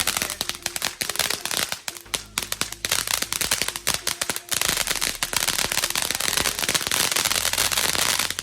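Consumer firework going off on the ground: a loud, dense stream of rapid crackling pops and bangs with a couple of brief lulls, cutting off suddenly at the end.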